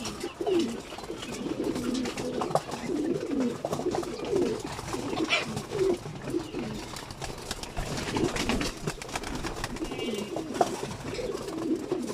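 Many pigeons cooing at once in their loft, a steady overlapping chorus of low coos, with scattered small clicks and flutters.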